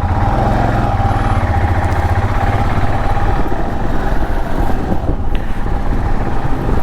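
Royal Enfield Himalayan's single-cylinder engine running steadily at idle.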